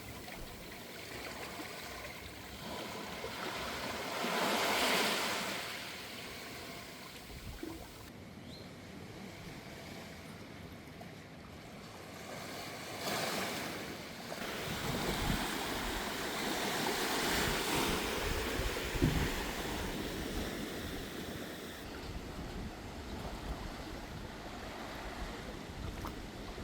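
Sea waves washing in on a shore, swelling loudest about five seconds in and again around thirteen and seventeen seconds in.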